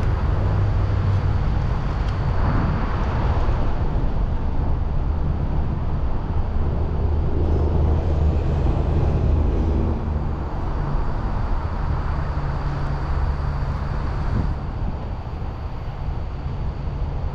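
A steady low engine drone, with a hum that shifts slightly in pitch now and then, over outdoor noise.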